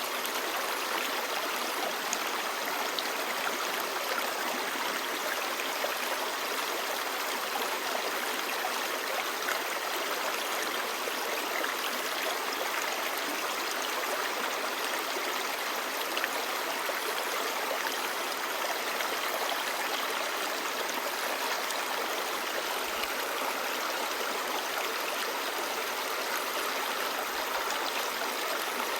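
Clear river babbling steadily, a constant even rush of flowing water.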